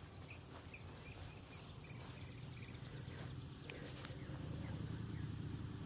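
Faint outdoor ambience: a run of short, high chirps over a low, steady rumble that grows a little louder after about four seconds.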